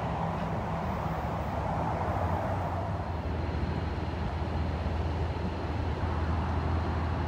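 Amtrak Pacific Surfliner passenger train approaching, its diesel locomotive running with a steady low rumble. The rumble grows stronger and a faint steady high whine joins about three seconds in.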